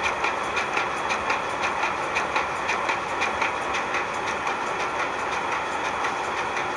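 Ship's two-stroke diesel engine running steadily, with a rapid, even clatter of ticks about five a second over a constant mechanical din.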